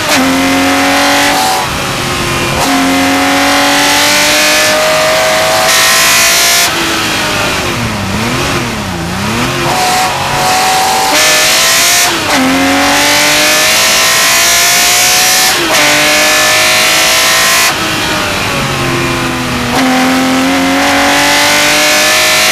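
Porsche 911 Carrera RSR's flat-six racing engine heard onboard at full throttle, revs climbing and dropping sharply at each upshift. About eight seconds in the revs fall and rise quickly a few times as it brakes and downshifts for a corner, then it pulls hard through the gears again.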